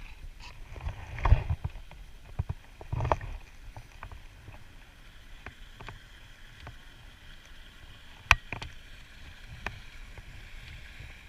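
Knocks and bumps against a kayak hull, with a faint steady wash of water. The knocks are scattered, with heavier thumps in the first few seconds and one sharp click a little past the middle.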